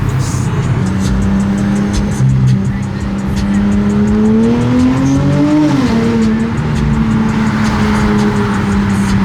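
A car engine running at a steady pitch, which climbs gradually and then drops sharply about six seconds in before settling back to a steady note.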